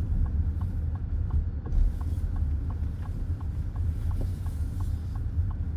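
A car's turn-signal indicator ticking steadily, about three clicks a second, over the low rumble of the car on the road, heard inside the cabin.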